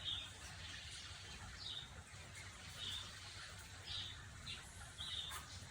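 A small bird chirping faintly in the background, short high chirps about once a second, over a low steady hum.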